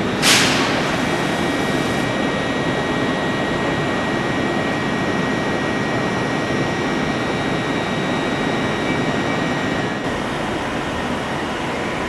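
Steady hum and whine of Class 319 electric trains standing at the platforms, heard with the echo of the trainshed, with a short sharp hiss about a quarter of a second in.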